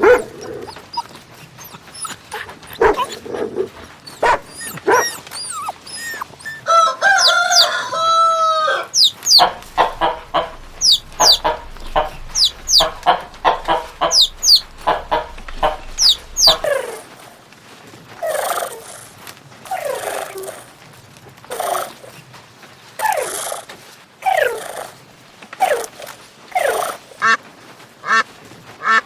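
Chickens calling: a long rooster crow about seven seconds in, then a run of short, quickly falling high calls, and later repeated clucking roughly once a second.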